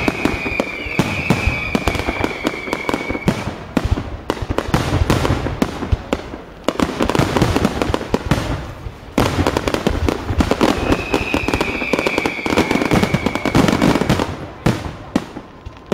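Fireworks display: a dense run of crackling bursts and bangs. Twice a high whistling tone rides over the crackle, near the start and again after about eleven seconds. The barrage thins out near the end.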